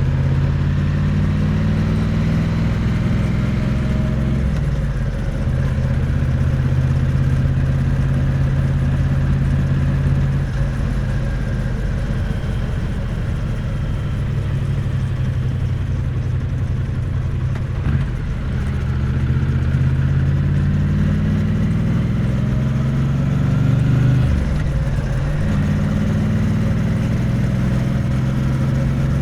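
Triumph Bonneville T100's parallel-twin engine and exhaust on the move, heard from close to the exhaust. The revs climb and fall with the throttle, dropping sharply twice before climbing again.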